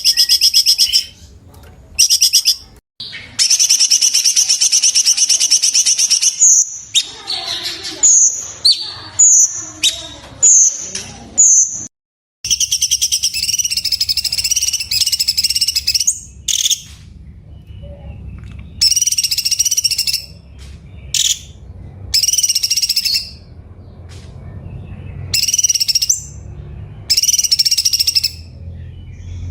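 Cucak cungkok, a bulbul, singing loud, shrill whistled phrases in bursts separated by pauses. There is a run of short, sharp repeated notes, about two a second, a third of the way in. A faint low hum sits under the second half.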